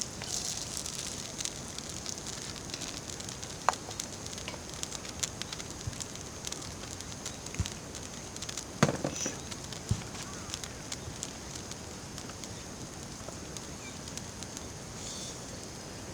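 Wood campfire crackling, with scattered sharp pops over a steady faint hiss and one louder knock about nine seconds in.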